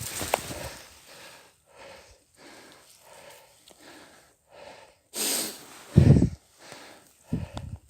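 A person breathing hard in quick, rhythmic puffs, as if straining or running. Loud low buffets, like wind on the microphone, come about six seconds in and again near the end.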